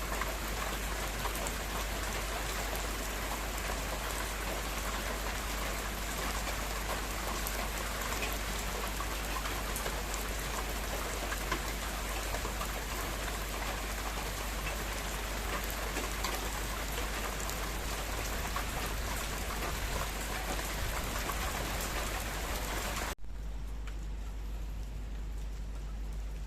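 Heavy rain falling steadily in a dense, even patter, with a steady low hum beneath it. About 23 seconds in the rain cuts off abruptly, leaving a much quieter sound over the same hum.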